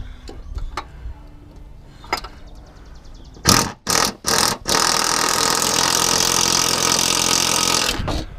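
Impact wrench fired in four short bursts, then run steadily for about three seconds before cutting off, trying to break loose a stuck nut on the mower deck spindle.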